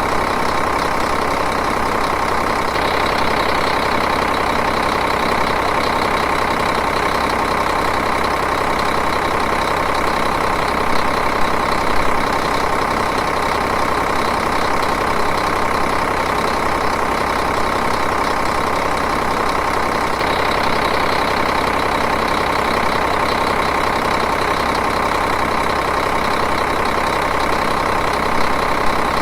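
Diesel engine idling steadily, its running note unchanging.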